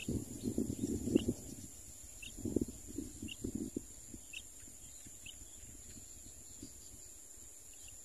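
Short high bird chirps repeat about once a second. Irregular low rustling comes in the first half, over a steady high-pitched hiss.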